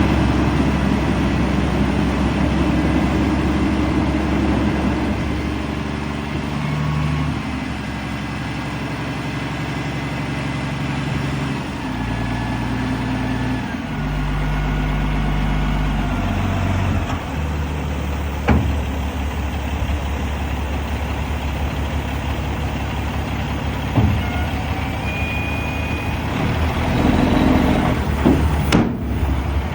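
Diesel engine of a 2007 Kenworth dump truck running, its speed stepping up and down several times, with a few sharp knocks.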